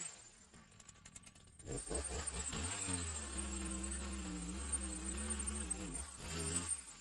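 An insect buzzing close by, a steady hum whose pitch wavers up and down. It starts about two seconds in and stops just before the end.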